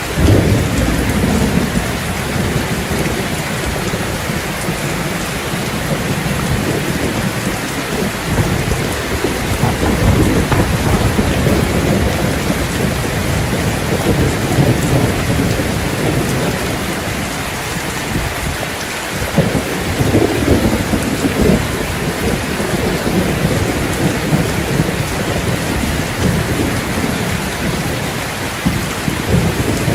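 Steady heavy rain, with low rolling thunder that swells and fades several times, roughly every ten seconds.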